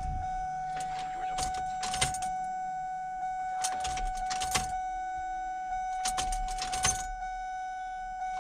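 A car ignition key on its jangling key ring being turned on and off three times, with clicks and rattles each time, to prime the fuel system after a fuel filter replacement.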